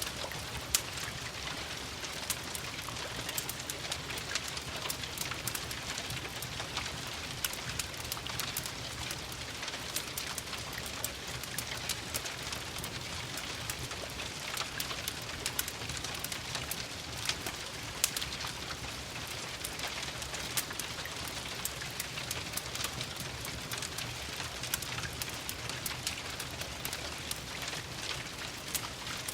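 Steady rain mixed with a crackling wood fire: a constant hiss of rain with frequent short, sharp crackles and pops throughout.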